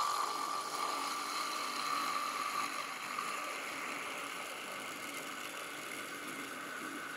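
Wood lathe running while a gouge cuts the inside of a cross-grain bowl from the rim toward the centre: a steady hiss with a faint whine.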